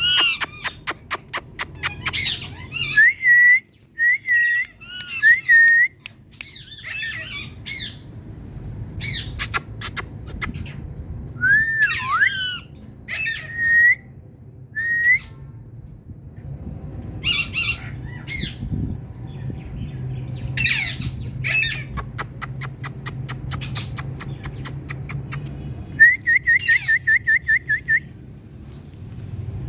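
Pet Indian parrot calling: harsh squawks, short whistled notes and rapid clicking runs, coming in bursts with short gaps. Near the end it gives a quick even run of about a dozen short chirps.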